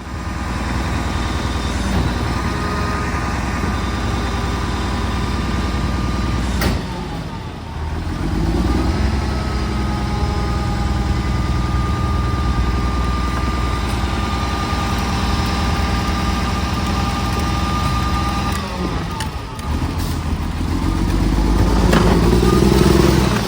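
Garbage truck's diesel engine running, speeding up twice, with a steady high whine through the middle and a sharp click about seven seconds in.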